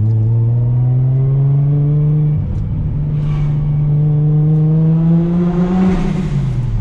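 Car engine accelerating through the gears: its pitch climbs, drops at a gear change about two and a half seconds in, climbs again and drops at another change near the end.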